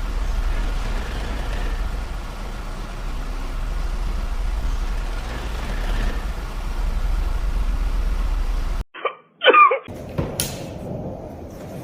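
A vehicle running with a steady low rumble for about nine seconds, which cuts off abruptly. A brief throaty vocal sound follows, then a quieter noisy background with a few clicks.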